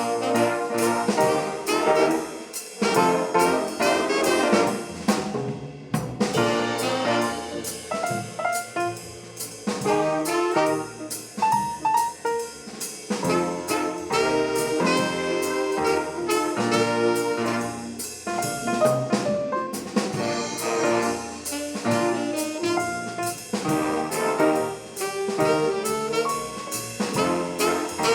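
A high-school big band playing swing jazz: a brass and saxophone section with trumpets and trombones over a drum kit.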